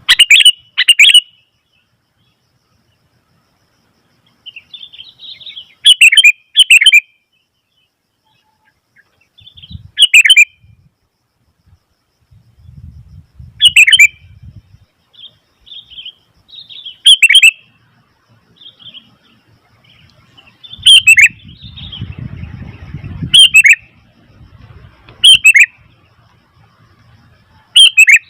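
Sooty-headed bulbul (kutilang) giving loud, sharp calls every few seconds, often two in quick succession, with softer chattering calls in between. A low rumble runs under the calls in the middle.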